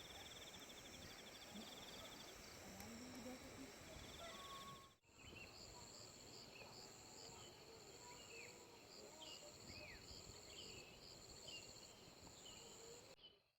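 Faint ambience of insects trilling in steady, high-pitched pulsing bands. After a break about five seconds in, a series of short, falling chirps comes in over the trilling.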